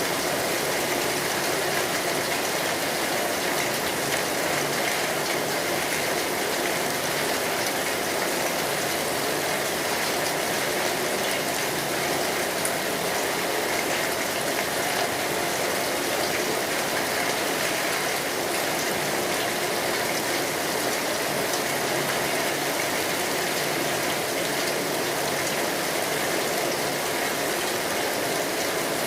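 Steady rain falling, with a continuous hiss of drops and no pauses or changes.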